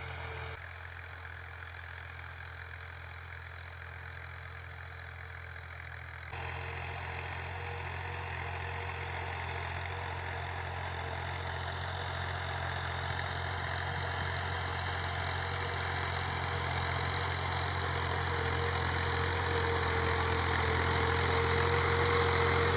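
Tractor diesel engine running steadily, with a constant whine above the engine note. It jumps louder about six seconds in and grows gradually louder through to the end.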